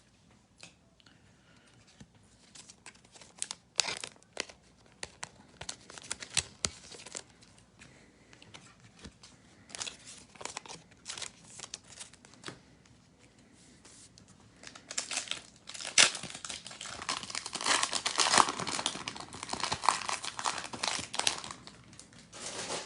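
Trading-card pack wrapper being torn open and crinkled by hand, with light scattered rustles and clicks at first and a dense, louder stretch of crinkling and tearing in the last several seconds.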